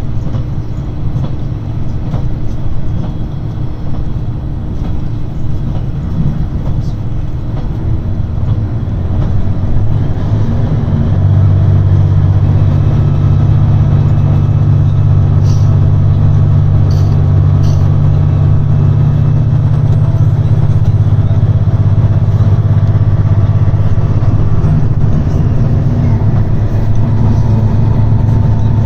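JR Shikoku 2700 series diesel railcar running, heard from inside the car: a rumbling ride for about ten seconds, then the diesel engine comes up to a loud, steady drone that holds, with three brief clicks a few seconds after it rises.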